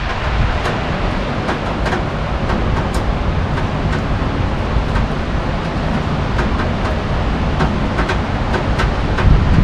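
Heavy rain falling, with a strong low rumble of wind on the microphone and many scattered sharp taps of drops.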